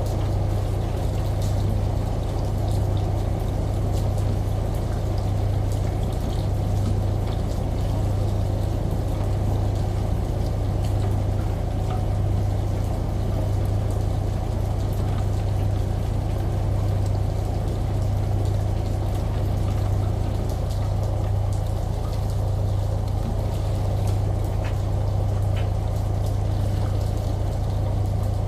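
A washing machine humming steadily under an even rush of running shower water, with scattered faint ticks of raindrops.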